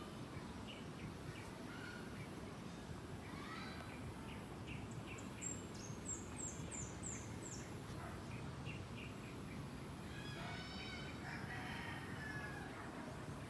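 Several birds calling over a steady low outdoor background: scattered short chirps, a quick run of high downward-sliding notes about five seconds in, and a longer call with several overtones a little past the ten-second mark.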